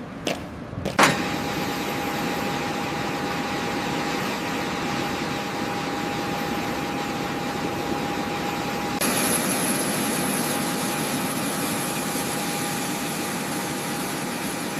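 A sharp crack about a second in, then a steady engine-like mechanical drone with a thin steady whine. The drone grows brighter abruptly about nine seconds in.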